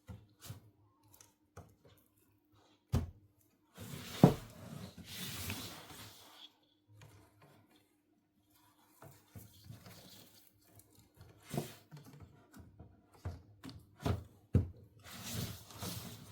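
Small plastic toy pieces being unpacked and handled: scattered clicks and taps, with a sharp knock about four seconds in. Two stretches of plastic packaging rustling, one just after that knock and one near the end.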